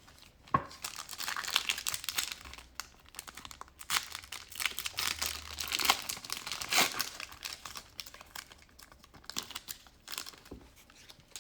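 Foil wrapper of a 2020-21 Panini Prizm basketball card pack crinkling and tearing as the pack is ripped open. The crackling is densest through the first seven seconds or so, then thins to scattered crinkles.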